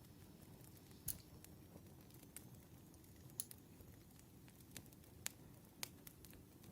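Campfire burning quietly: a low steady rumble with about six sharp crackles and pops of burning wood, the loudest about a second in.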